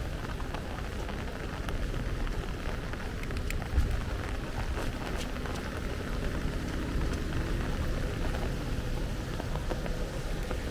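Heavy rain pouring steadily, with a deep, steady rumble underneath and one short thump about four seconds in.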